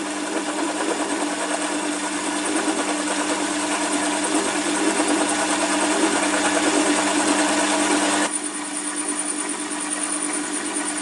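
Small metal lathe running with its motor's steady hum while a hand-fed cutting tool takes a light cut on the spinning workpiece, adding a hissing cutting noise. About eight seconds in the hiss drops away and a thin high whine remains over the hum.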